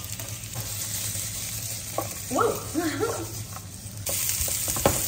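Sliced onion frying with ginger, garlic and curry leaves in a hot oiled pan: a steady sizzle stirred with a utensil that clicks and scrapes against the pan. The sizzle grows louder about four seconds in. A short surprised "whoa" cuts in midway.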